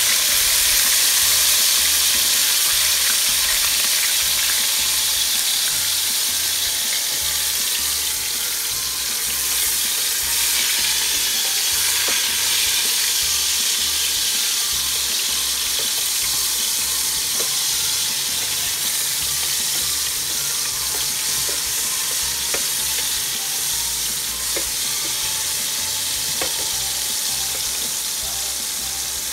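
Chopped tomatoes and onion sizzling steadily in hot oil in a pan, with a spatula stirring and tapping in the pan now and then; the sizzle eases off slightly over time.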